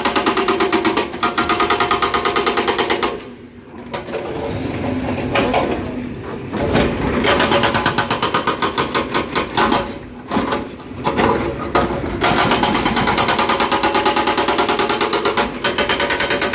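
Excavator-mounted hydraulic breaker hammering rock with rapid, evenly spaced blows, stopping briefly three times and starting again.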